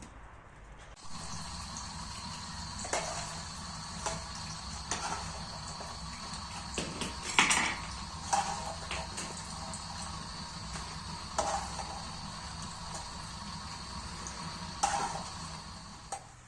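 A steady hiss of kitchen work sets in suddenly about a second in, with sharp clinks and knocks of kitchenware every second or few; the loudest come about halfway through and near the end.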